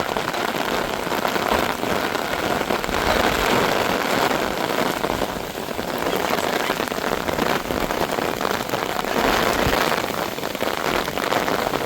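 Heavy rain falling steadily, a continuous hiss of drops on surfaces with scattered faint ticks.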